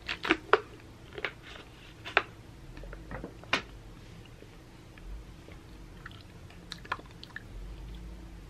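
A person chewing and biting food close to the microphone, with sharp crunchy clicks now and then, several together at the start and then spaced out.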